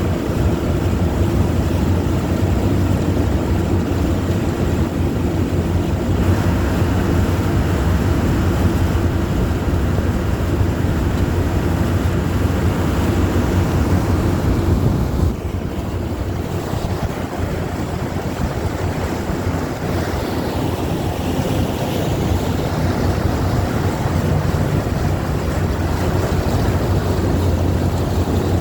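Amphibious duck boat under way on the river: a steady engine drone mixed with rushing water and wind on the microphone. The level drops a little about halfway through.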